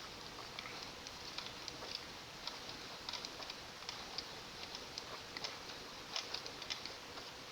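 Faint, irregular light clicking of a computer keyboard being typed on, a few keystrokes a second with short gaps.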